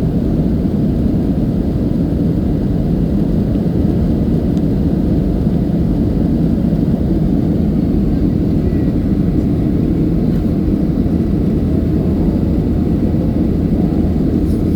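Steady, loud, low rumble of an airliner's engines and rushing air, heard from inside the passenger cabin.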